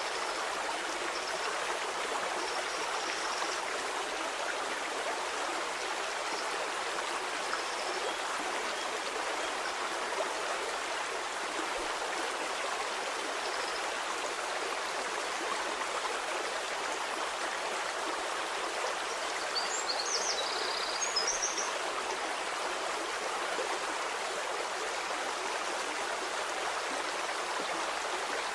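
Stream water flowing steadily with an even rushing babble. A few short high chirps come about two-thirds of the way through.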